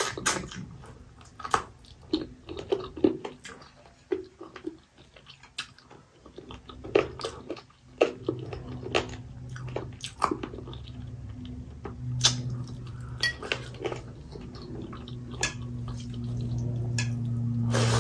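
Close-up chewing and mouth sounds of someone eating rice and curry by hand, with soft clicks of fingers mixing rice on a steel plate. About eight seconds in a steady low hum starts and grows louder toward the end.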